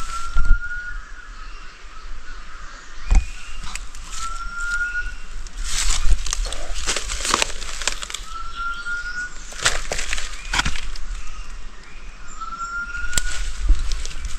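A bird calling with one short rising whistled note, repeated about every four seconds, four times. Sharp clicks and knocks from handling or movement come in between.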